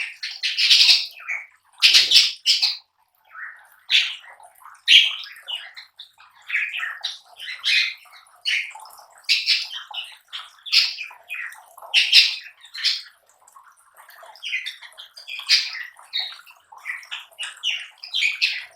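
Lovebirds making short, irregular chirps and squawks in quick succession, mixed with the rustle of palm leaves being torn apart.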